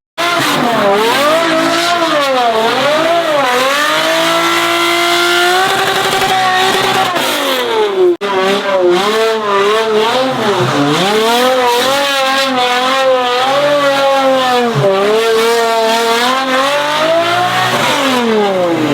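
Car engine revving hard and driven through the gears, its pitch climbing, holding, then falling again and again, with quick up-and-down swings in the second half.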